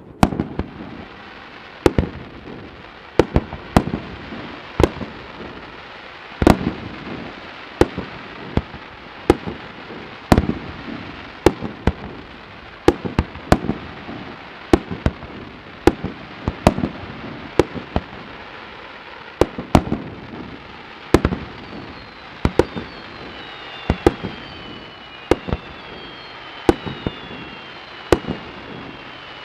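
Fireworks display: a steady series of sharp bangs from bursting shells, about one a second, over a continuous crackle and rumble. Several falling whistles sound in the last third.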